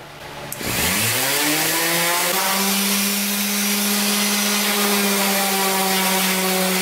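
Electric sander fitted with 80-grit paper starting up about half a second in, its motor whine rising in pitch for about two seconds and then running steadily. A broad hiss sits over the motor tone, the sound of the abrasive working cedar.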